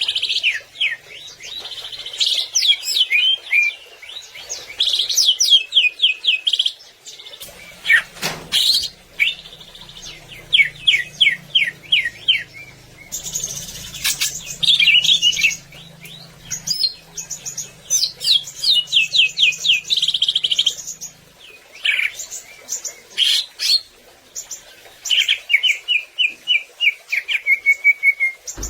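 Cucak ijo (green leafbird) singing a loud, varied song of quick trills and rapid series of short sweeping whistled notes, phrase after phrase with short pauses between.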